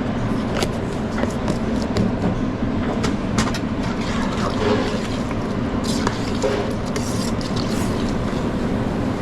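Steady low rumble of commercial kitchen ventilation, with scattered clinks and knocks of utensils and pans, and a short hiss about six seconds in.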